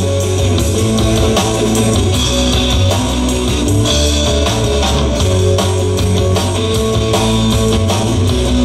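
A rock band playing an instrumental passage, with electric guitar, bass guitar and drums.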